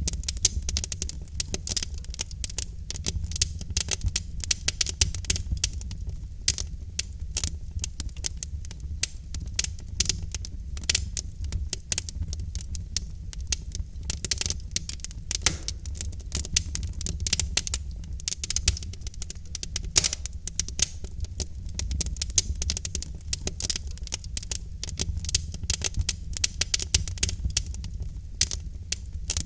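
Wood fire in a fireplace crackling and popping, with dense irregular snaps over a low steady rumble of burning logs.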